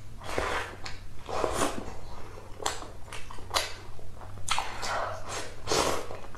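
Close-miked eating sounds: wet chewing, biting and mouth smacking, with irregular short bursts and sharp clicks.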